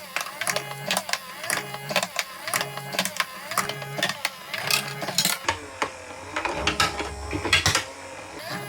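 Marbles clacking and rolling through a block marble run: rapid irregular clicks of glass marbles striking and dropping down the blocks, with a low rolling rumble from about halfway through until near the end.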